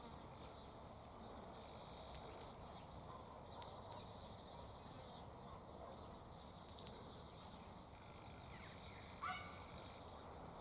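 Faint scattered short, high-pitched bird chirps and ticks over a low hiss, with a rising chirp about two-thirds of the way through and a brief lower call near the end.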